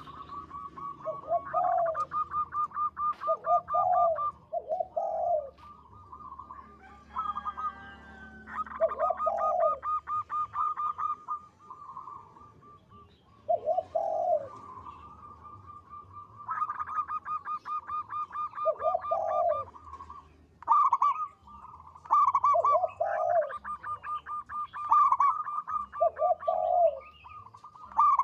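Zebra dove (perkutut) singing: rapid trains of staccato cooing notes, broken by deeper, longer coos that repeat every second or two.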